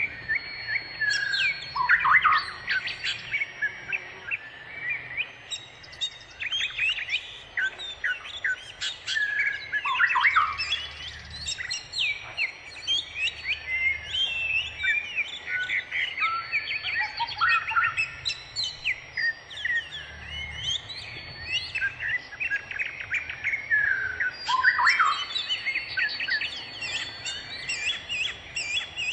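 Many birds chirping and calling at once in a dense, overlapping chorus of quick tweets and sweeping notes, with a few louder calls that drop in pitch about 2, 10 and 25 seconds in.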